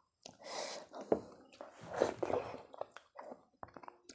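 Close-miked chewing of a mouthful of soft, hot khichuri (rice and lentils), with several short wet chewing bursts and then a run of small mouth clicks.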